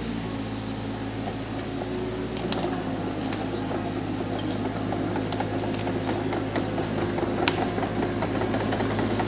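A Suzuki Jimny's engine running steadily as it drives, with irregular rattles and clicks over the top. It cuts off suddenly at the end.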